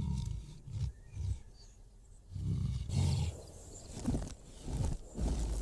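Big cats growling in a standoff over a kill: a string of short, low, rumbling growls, about eight in all with brief gaps between.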